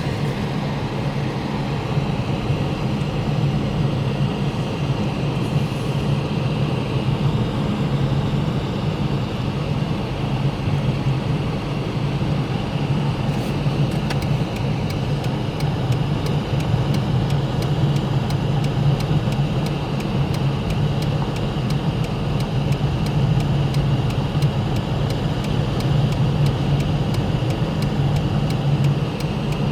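Steady drone of a vehicle's engine and road noise while driving on the highway, with faint regular ticking from about halfway through.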